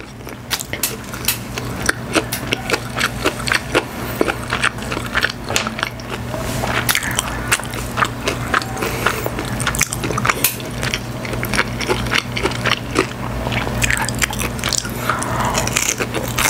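Close-miked mukbang eating: chewing and biting a mouthful of Korean fried chicken and kimchi fried rice, with irregular wet mouth clicks and crunches, over a steady low hum.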